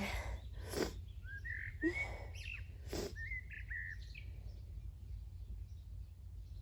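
A songbird singing a run of short whistled chirps from about a second in to about four seconds, over a steady low rumble. Several brief breathy noises come in the first three seconds.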